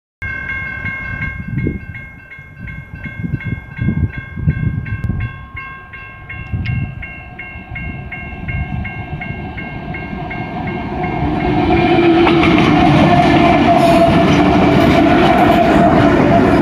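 A railroad crossing bell rings in steady strokes, about three a second. About eleven seconds in, the approaching CSX GE ET44AH locomotive arrives and its loud passing rumble drowns the bell out.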